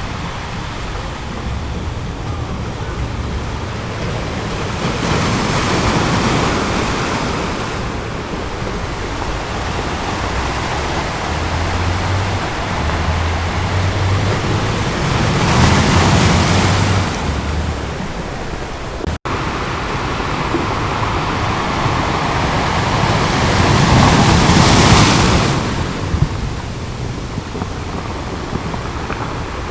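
Ocean surf on a beach: a steady wash of waves, swelling as a wave breaks about every nine to ten seconds, three times in all. There is a split-second gap in the sound just past halfway.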